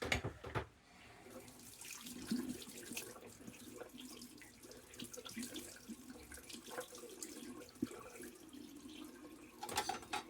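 Water running from a tap into a sink, with irregular splashing throughout; a couple of sharp knocks right at the start.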